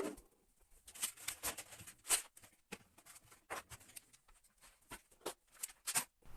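Irregular light knocks, taps and clatters, about two or three a second, as household items are handled and lifted out of the cabinet under a bathroom sink.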